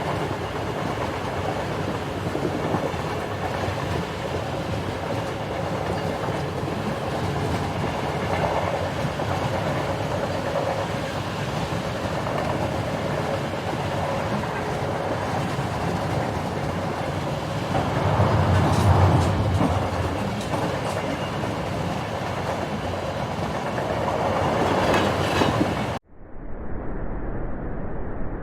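Steady rumbling running noise of a vehicle in motion, swelling louder for a couple of seconds about two-thirds of the way through. About 26 s in it cuts off abruptly, giving way to a duller, muffled ambience.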